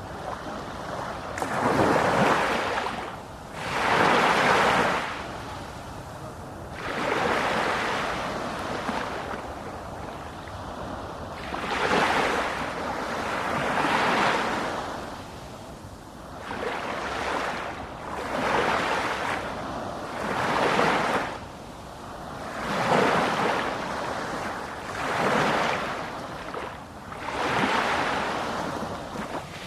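Sea waves breaking and washing ashore, the surf swelling and falling back every two to three seconds.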